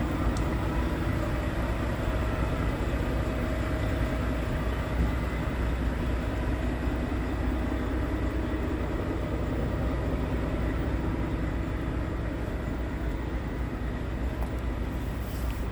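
Scania P truck's diesel engine running steadily, a constant low rumble that does not rise or fall.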